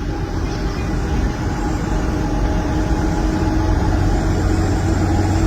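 Heavy truck engine running with a steady drone.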